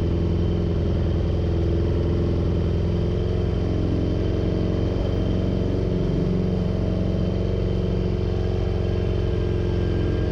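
Yamaha R6 sportbike engine running steadily at an even, low speed, its pitch wavering only slightly.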